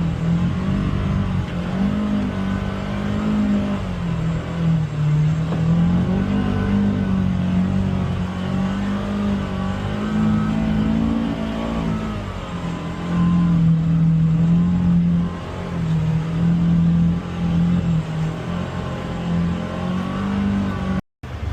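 Polaris Xpedition UTV's engine running under load on the trail, its pitch rising and falling as the throttle is worked. The sound cuts out for a moment near the end.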